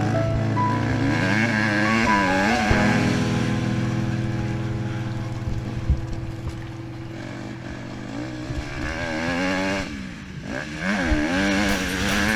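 Honda CRF150 dirt bike's four-stroke single-cylinder engine revving up and down as it is ridden, its pitch rising and falling over and over, with a brief drop in level about ten seconds in.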